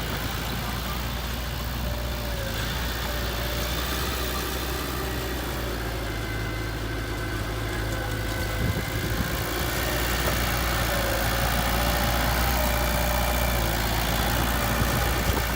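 Heavy diesel engine of earthmoving equipment running steadily near idle, getting slightly louder about ten seconds in.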